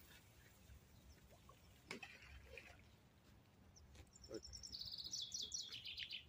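A songbird singing a fast trill of short high notes that steps down in pitch, starting about four seconds in and lasting around two seconds. Before it there is only faint outdoor background with a soft click.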